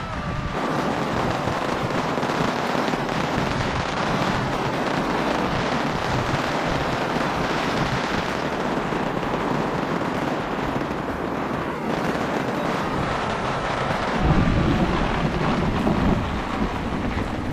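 Heavy rain pouring down in a steady hiss, with strong wind gusts buffeting the microphone in low rumbles from about fourteen seconds in.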